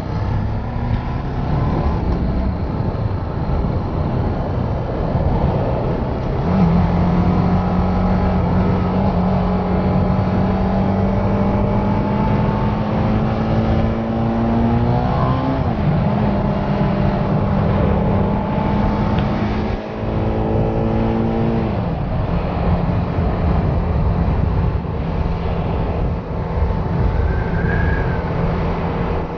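Benelli 600i's inline-four engine under way. About six seconds in the note jumps up with the throttle and climbs slowly, drops sharply at a gear change about halfway, holds steady, then falls away as the throttle closes, over a steady rushing noise.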